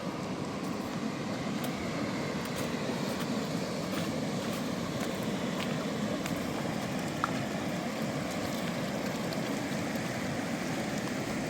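Mountain river rushing steadily, an even wash of water noise with a few faint ticks.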